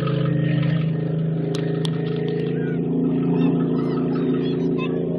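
Truck engine running steadily at a constant speed.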